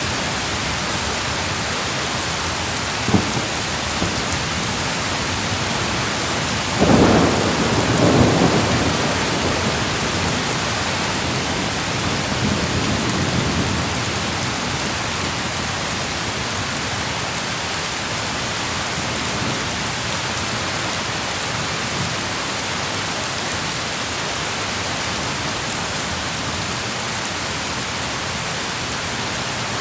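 Thunderstorm: steady heavy rain throughout, a short sharp crack about three seconds in, then a loud thunderclap about seven seconds in that rolls into a rumble lasting several seconds.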